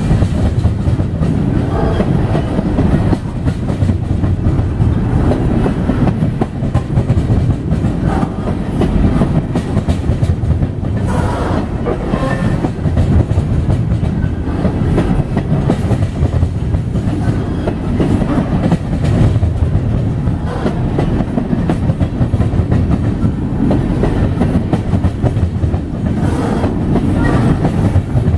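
Loaded coal train's cars rolling past close by: a steady, loud rumble of steel wheels on rail, with the clickety-clack of wheels passing over rail joints.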